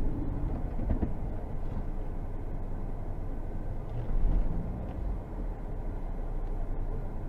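Steady low rumble of a moving vehicle, with louder swells about a second in and about four seconds in.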